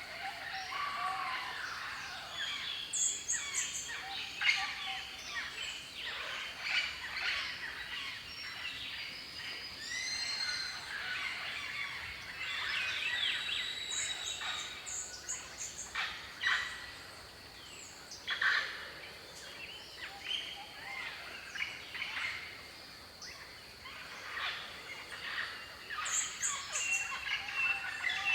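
Several birds chirping and calling over one another, a busy mix of short rapid chattering notes and trills. A brief, very high pulsing call comes three times, near the start, about halfway and near the end.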